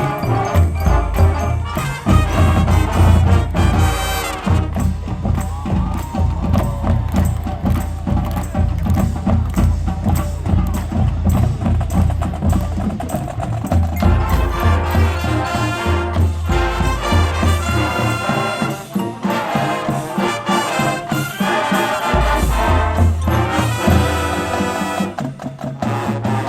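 Marching band playing, with brass horns over a driving drumline beat; the horns swell fuller about halfway through.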